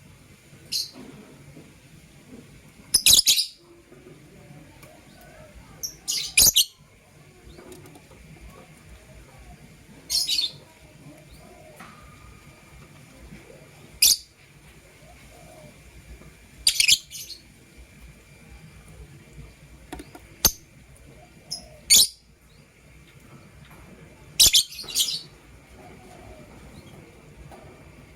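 Pet lovebirds (a blue opaline and a green masked lovebird) giving short, high-pitched chirps, one burst every two to four seconds, about nine in all.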